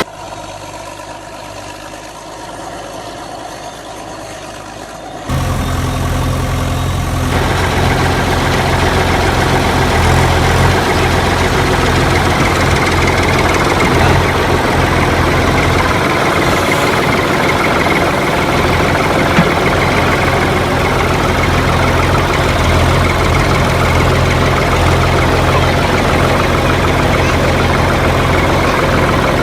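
Tractor engine idling steadily, coming in suddenly and loudly about five seconds in after a quieter stretch.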